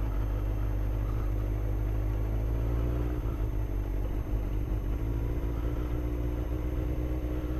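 Motorcycle engine running steadily at low speed, a constant low rumble with no revving.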